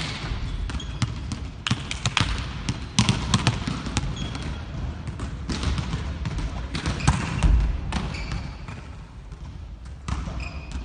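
Volleyballs being hit and bouncing on a gym floor: many sharp smacks and slaps at irregular intervals, with voices in the background.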